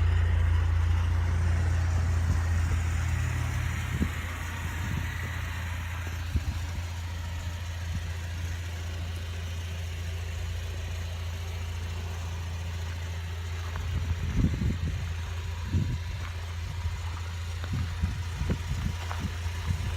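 Honda Civic Si's 2.0-litre four-cylinder idling through a 2.5-inch catback with the stock axle-back muffler and a header with test pipe, a steady low drone that eases down over the first few seconds. A few short knocks or clicks sound over it in the second half.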